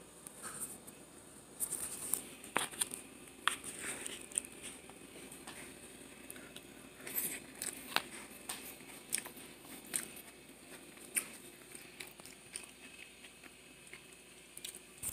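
A person chewing mouthfuls of a vegan power bowl: irregular small clicks and soft crunches of eating, coming in uneven clusters.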